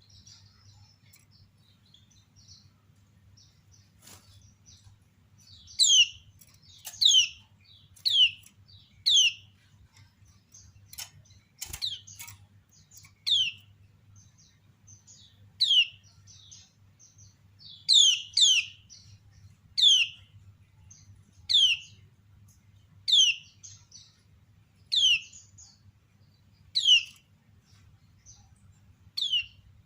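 Female kecial kuning (yellow white-eye) giving short, sharp 'ciak' calls that slide steeply downward, repeated about every one to two seconds from some six seconds in, after a few faint chirps. This is the female's calling note, used to lure males into answering. A low steady hum runs underneath.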